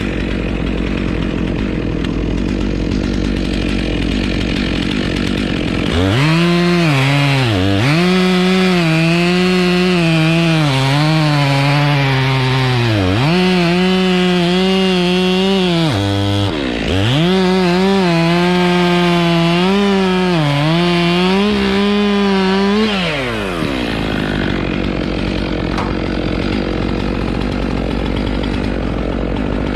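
Two-stroke chainsaw idling, then revved to full throttle about six seconds in and held high for some seventeen seconds as it cuts wood. Its pitch dips sharply and recovers several times before it drops back to idle.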